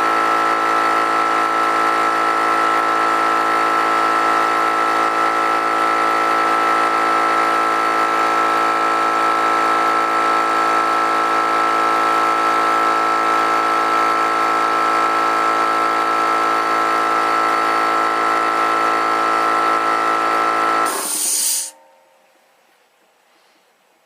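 Harbor Freight air compressor running steadily with a high whine while it pumps up its tank, then shutting off about 21 seconds in with a short hiss of air from the unloader valve: the pressure switch cutting out at its newly set pressure, about 112 psi.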